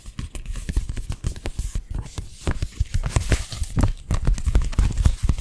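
Close-miked ASMR stroking over the microphone, a dense, irregular crackle of scratchy clicks with low bumps, as strokes sweep down a shoulder and arm.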